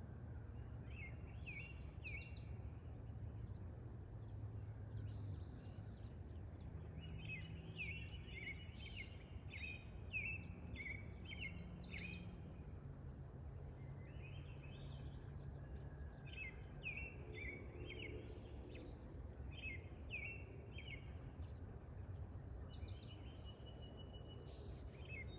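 A songbird singing in about four short bursts of quick chirps and high sweeping notes, over a steady low rumble of outdoor background noise.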